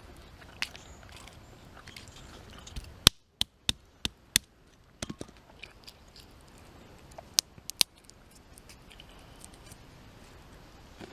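Roasted hazelnut shells cracking open: sharp, dry cracks, a quick run of five about three seconds in, a few more around five seconds, and two more near the end.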